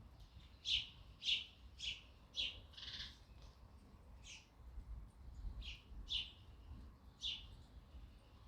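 Sparrow chirping: a string of short, single chirps, about nine in all, coming roughly every half second for the first three seconds and then more spaced out.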